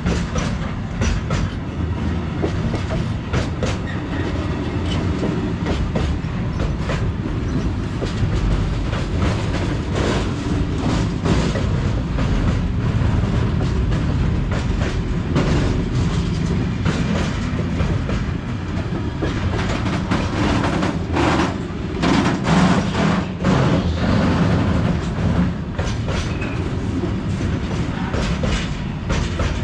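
A freight train rolling past: a steady rumble of wagons with the wheels clattering over the rail joints, the clatter thickest and loudest about two thirds of the way through.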